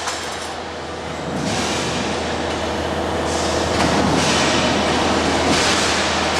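CO2 laser cutting machine running: a steady low hum under a hiss that changes in level every second or two.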